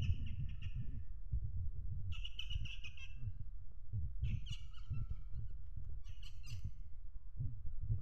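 Caged bird calling: four rapid trilled calls, each about a second long, coming about every second and a half. A low rumble of handling noise runs underneath.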